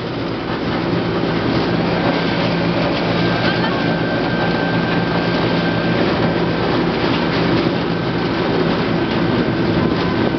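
Roller coaster train running on its steel track: a steady rattling rumble with a low hum throughout.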